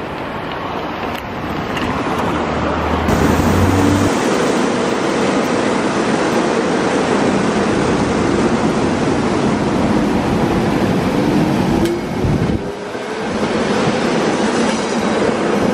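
SEPTA Silverliner IV electric commuter train running past close by, a steady rush of wheels on rail. The sound swells about two to three seconds in and dips briefly near twelve seconds.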